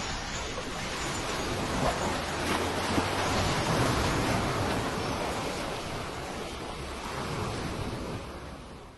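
Waves surging: a broad rush of water noise that builds over the first few seconds and then slowly ebbs away.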